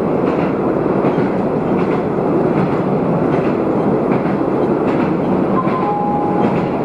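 Diesel railcar running along the line, heard from inside the car: a steady rumble of engine and wheels on rail. A faint high tone comes in briefly near the end.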